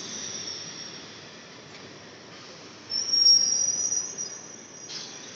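EMU local train running through the station at speed, wheels rumbling steadily on the rails with a high-pitched wheel squeal that swells loudest about three seconds in. A single sharp clack comes near the end.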